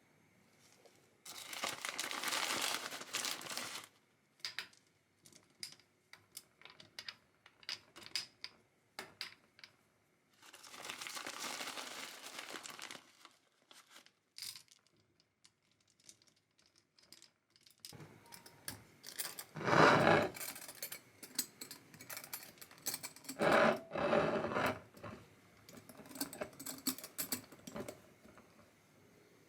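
Handling noises from making green plum syrup: a plastic bag crinkling in two stretches of a few seconds, with light clicks and taps in between. Several louder knocks come near the end.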